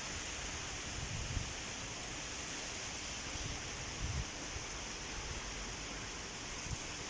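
Steady hiss of heavy rain, with a few short low thumps a little after one second, about four seconds and near seven seconds in.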